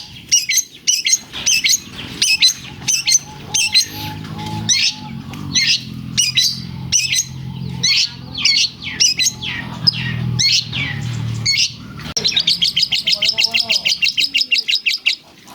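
Long-tailed shrike (cendet) singing in a fast run of varied high chirps, with mimicked lovebird phrases. About twelve seconds in, it breaks into a rapid, even trill lasting about three seconds.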